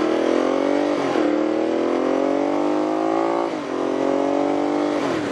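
Ducati Monster 1200's L-twin engine pulling hard under acceleration, its pitch climbing through the gears with upshifts about a second in, past the middle and again at the end, over wind rush on the helmet microphone.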